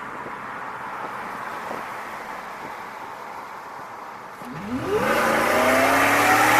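Steady road noise from a moving vehicle. About four and a half seconds in, an engine gets loud and its pitch climbs steadily as it revs up under hard acceleration.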